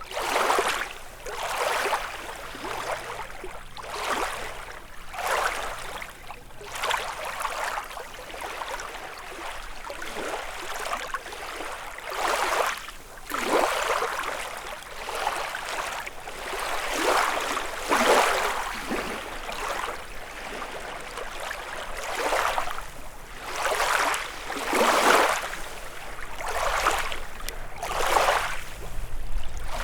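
Small lake waves lapping and splashing against the shore, a fresh splash arriving irregularly every second or two.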